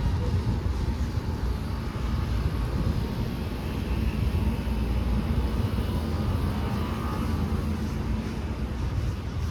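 City street ambience: a steady, deep rumble with faint higher tones over it and no sudden events.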